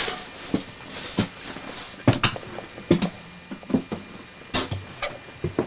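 Footsteps and knocks inside a railway coach: a run of irregular sharp thumps, about one a second.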